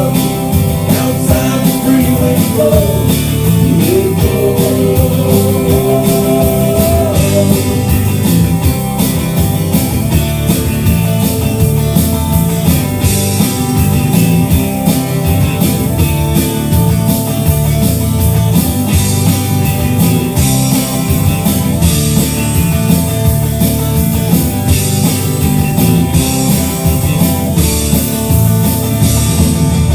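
A country-rock band playing an instrumental break: electric guitar, bass and drum kit, with a gliding lead guitar line in the first few seconds.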